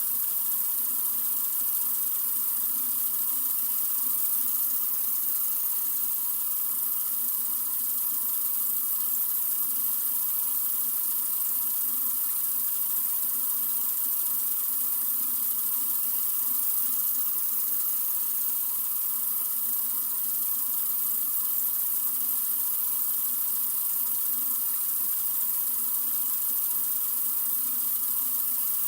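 Sink faucet running in a steady, unbroken stream of water, an even hiss.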